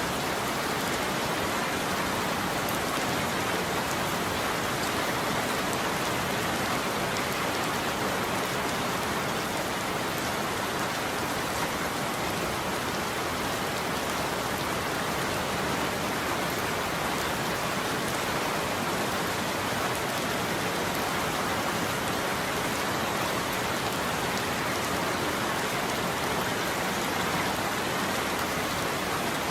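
Heavy rain falling steadily, a dense even hiss with no thunder and no change in level.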